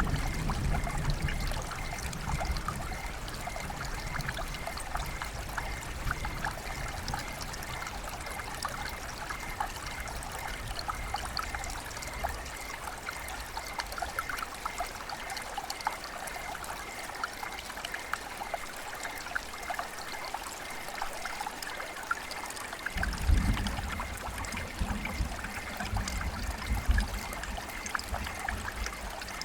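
Rain and trickling water: a steady patter of small drops over a running-water hiss. A low rumble fades out over the first couple of seconds and swells up again about three quarters of the way through.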